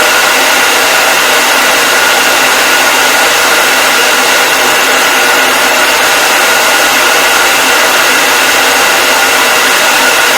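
Hair dryer running steadily: a constant loud rush of air with a faint motor whine of several steady tones, unchanging throughout.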